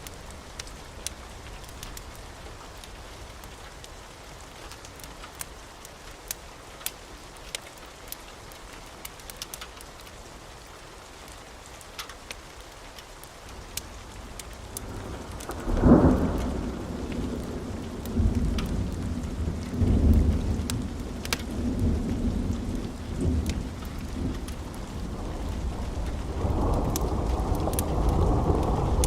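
Wood fire in a fireplace crackling, with scattered sharp pops. About halfway through, a deep low rumble comes in and swells several times, much louder than the crackling.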